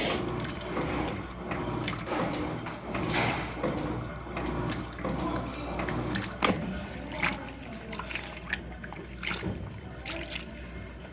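Electrolux LF75 top-loading washing machine agitating a load in turbo wash: water churning and sloshing in the tub in repeated swells, with a sharp knock a little past halfway.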